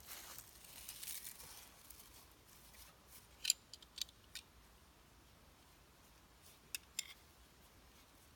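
Soft rustling and crinkling, then five short, sharp scraping clicks in two groups: three in quick succession a few seconds in, and two more near the end.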